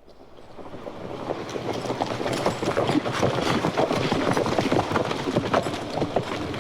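Sound-effects record track of dense, irregular clattering fading in from silence over the first two seconds, then running steadily.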